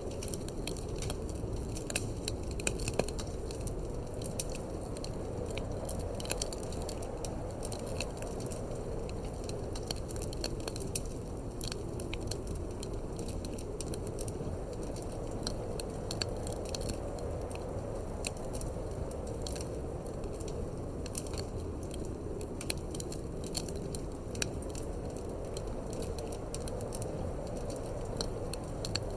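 Wood fire in a fireplace crackling, with frequent small pops and snaps, over a steady low rush of wind.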